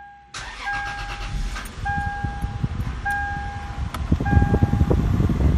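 Lexus IS300's 2JZ-GE inline-six starting and settling to idle, with a dashboard warning chime repeating about every second. The climate blower comes up loud near the end as the heat is turned to max.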